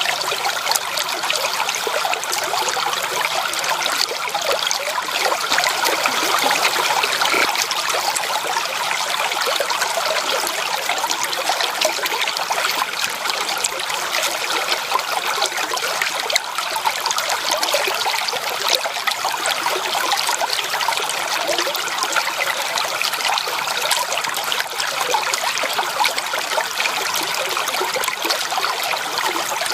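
Stream water running over rocks: a steady babble full of small splashes, with little deep rumble.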